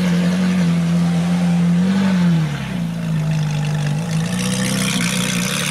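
Ferrari sports car engine running at a steady speed, with a slight rise and fall in pitch about two seconds in.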